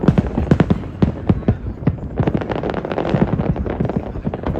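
Fireworks display: rapid, overlapping bangs and crackles, several a second, coming in two dense clusters.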